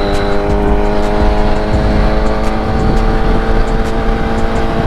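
Kawasaki Ninja ZX-6R sport bike's inline-four engine running steadily, its pitch sagging slowly as the revs drop, with wind rush on the helmet camera's microphone.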